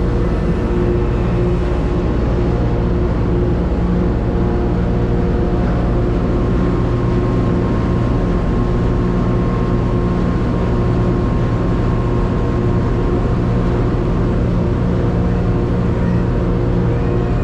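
Ferry's engine running at a steady cruise, heard on board as a constant low hum with a steady drone above it.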